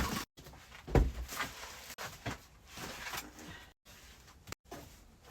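A heavy thump about a second in, followed by scattered light knocks and rustles of objects being moved and handled, broken by a few abrupt cuts to silence.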